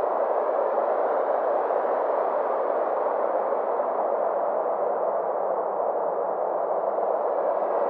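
Synthesized space ambience: a steady drone of filtered noise centred in the midrange, its brightness slowly swelling and fading with a gentle sweeping shimmer.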